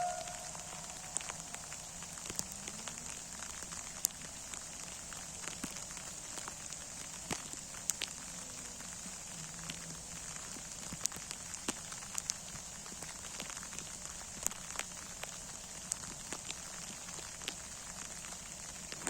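Rain falling: many scattered sharp drop impacts over a steady high hiss.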